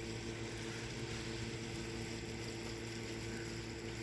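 Steady low mechanical hum with an even hiss underneath, unchanging throughout.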